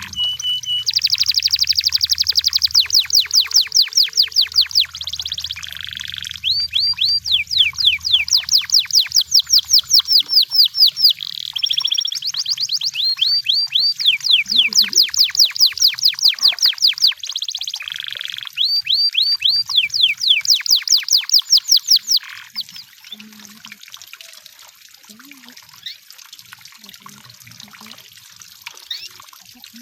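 Canary singing: several long trills of rapidly repeated high, sweeping notes in separate phrases, stopping about two-thirds of the way through, after which only faint scattered sounds remain.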